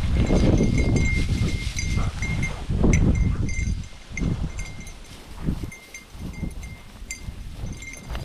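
A small bell ringing in short, irregular jingles, typical of a bell on a hunting dog's collar as the dog moves through the field, over a heavy low rumble that eases after about four seconds.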